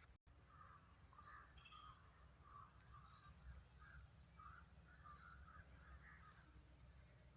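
Near silence with faint, short bird calls repeating irregularly over a low steady rumble.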